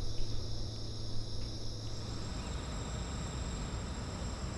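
Insects chirping in a steady, continuous chorus, with a low hum underneath that stops about halfway through.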